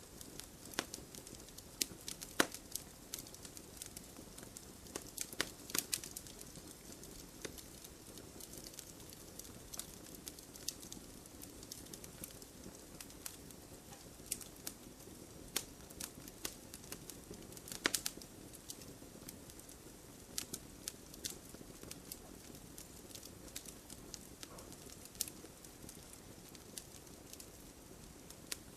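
Wood fire crackling in a fireplace: a soft steady hiss under irregular sharp pops and snaps, a few louder ones about two seconds in and again past the halfway point.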